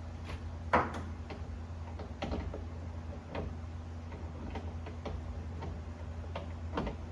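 Irregular metallic clicks and taps of hand tools at work under the hood, one sharper knock about a second in, over a steady low hum.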